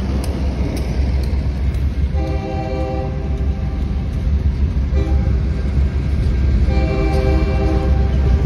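Freight train rolling past, with loaded covered hopper cars rumbling by. The lead locomotive's horn sounds a grade-crossing pattern over it: a blast about a second long, a short toot, then a long held blast near the end. A crossing bell dings about twice a second.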